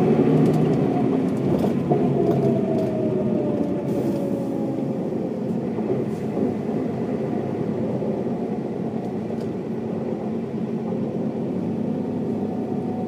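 Mercedes-Benz O407 bus's diesel engine running under way, with a whine that falls in pitch over a few seconds as the bus slows.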